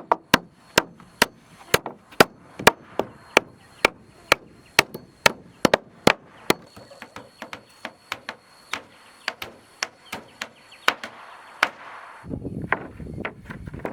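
Hammer striking wood in a steady run of sharp blows, two to three a second, as when nailing down wooden floor planks. The blows grow lighter about halfway through and stop near the end, where a low rumbling noise follows.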